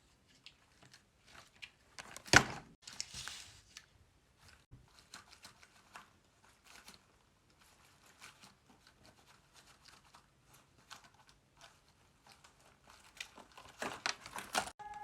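Paper being handled and folded: light crinkles and soft taps, with a sharp, loud paper rustle about two seconds in and a denser run of crinkling near the end.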